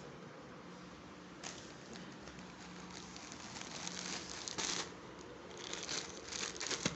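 Plastic parcel packaging crinkling and rustling as it is handled and pulled open, in irregular bursts that get busier partway through, with a sharp click near the end.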